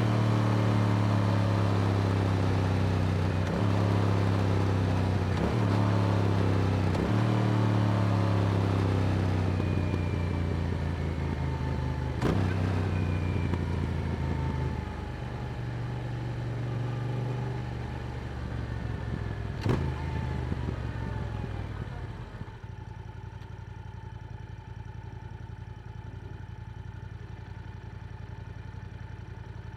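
Yamaha R7's parallel-twin engine through an Akrapovic exhaust pulling hard, with short breaks where it shifts up through three gears. It then slows with falling engine pitch and two sharp clicks along the way, and about two thirds of the way in drops to a steady, quieter idle.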